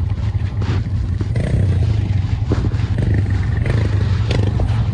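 ATV engine running steadily at riding speed, a low drone, with scattered knocks and rattles from the machine over rough ground.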